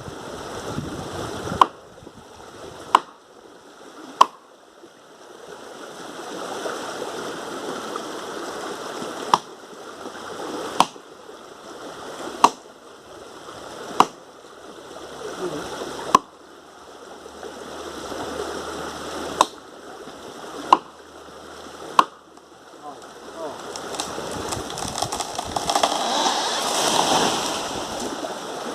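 Wood being chopped by hand: sharp single strokes, about eleven of them in loose runs roughly a second and a half apart, with a rustling noise between strokes that grows louder near the end.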